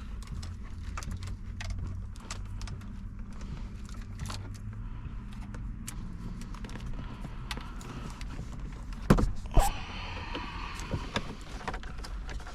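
Scattered clicks and rustling of a wire being worked through plastic dashboard trim, with two sharp knocks about half a second apart around nine seconds in, over a steady low hum.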